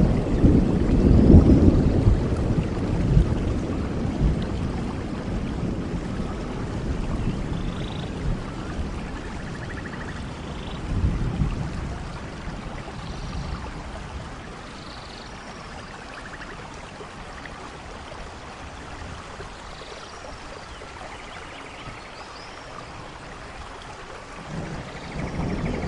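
Steady rain with thunder. A loud low rumble at the start rolls away and fades over about fifteen seconds, leaving the even hiss of the rain, and another roll of thunder builds near the end.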